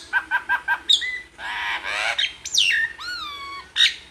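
Tame pet bird calling: a quick run of about five short chirps, a harsh squawk, then a few whistled notes that glide downward in pitch.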